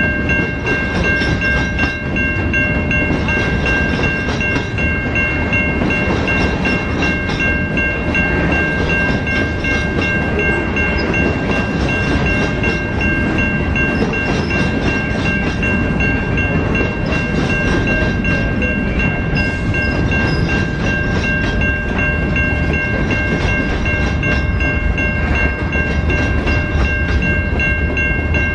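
A train rolling past a level crossing: a steady low rumble of wheels on the rails with some clickety-clack. Steady high ringing tones run throughout, typical of the crossing's warning bell sounding while the train goes by.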